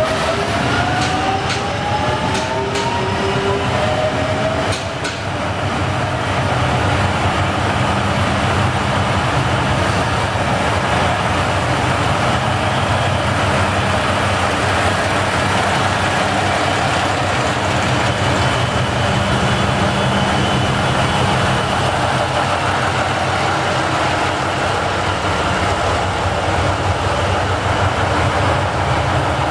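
A train running, its drive giving a rising whine as it picks up speed in the first few seconds, with a few sharp clicks, then steady running noise.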